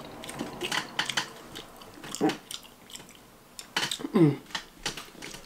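Close-up chewing and mouth sounds of a person eating Chinese takeout, with many short, sharp crunching clicks, and a couple of brief hummed sounds with the mouth closed about two and four seconds in.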